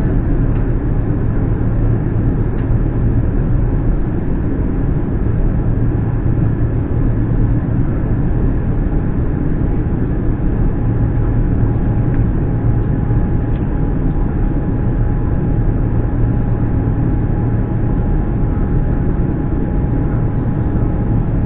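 Steady drone of an Airbus A350 in flight: engine and airflow noise, with a faint steady whine above it. It runs loud and even, with no change.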